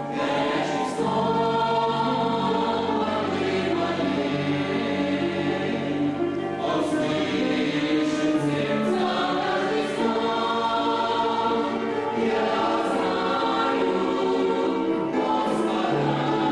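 A church singing group singing a hymn in several voice parts, in phrases of long held chords with short breaks between them.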